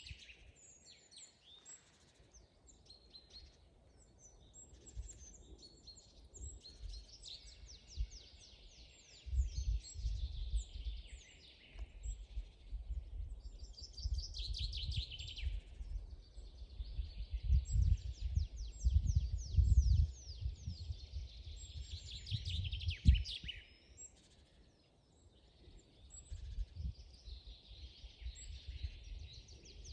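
Songbirds singing in a forest: many rapid series of high, downward-sweeping notes and trills overlapping throughout. A low rumble comes and goes from about nine seconds in until about twenty-four seconds, and is the loudest part.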